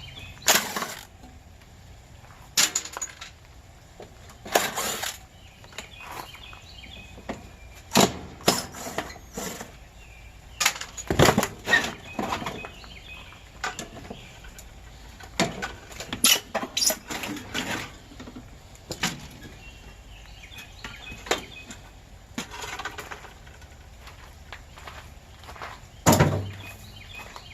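Irregular metal clanks and knocks from air conditioner units being pulled apart for scrap, some in quick runs of several strikes, the loudest near the end.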